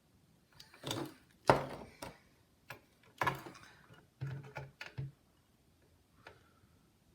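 A series of about eight sharp clicks and knocks from small tools handled against a motherboard and workbench during desoldering, the loudest about one and a half seconds in, with one faint click near the six-second mark.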